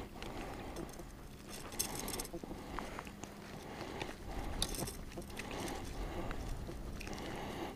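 Wind rumbling on the microphone, with scattered clicks and light rattles of gear being handled, including two short rattling bursts about two and five seconds in.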